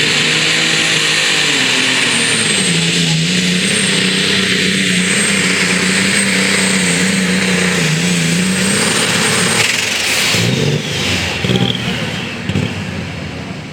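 Super stock pulling tractor's engine running flat out under load as it drags the weight sled, with a high steady turbo whine and the engine note sagging and recovering as it bogs. About ten seconds in the whine stops and the engine winds down as the throttle comes off at the end of the pull.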